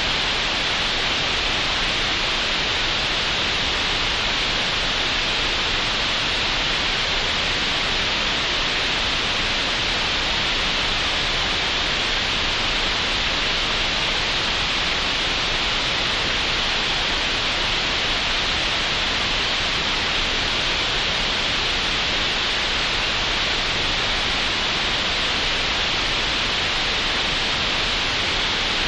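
Synthetic green noise generated in Audacity: a steady, unchanging hiss, brightest in the upper middle range, with nothing above a sharp top cutoff.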